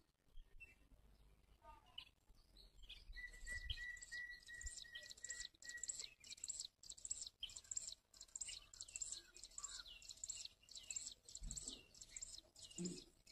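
Faint birdsong: a bird repeats a high chirp that drops in pitch, about two to three times a second, starting a few seconds in. A thin steady tone sounds under it for a few seconds.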